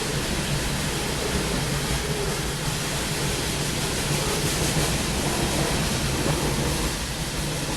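Steady rolling rumble and wheel noise of a loaded CSX coal train's hopper cars passing.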